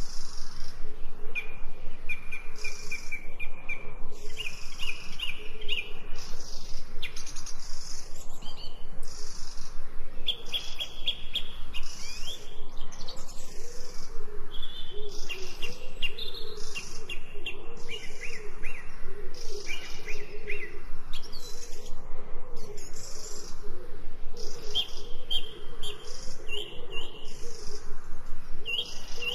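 Several birds chirping and singing over a steady background, with repeated trilled phrases and short high chirps throughout.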